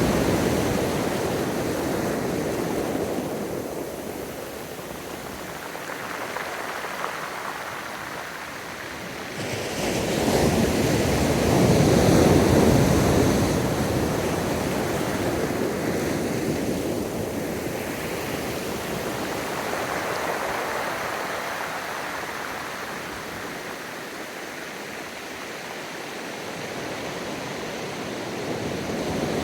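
Gentle ocean surf breaking on a beach and washing back, in slow swells: one wave breaking at the start, a bigger one about a third of the way in, a smaller one past the middle, and the next building near the end.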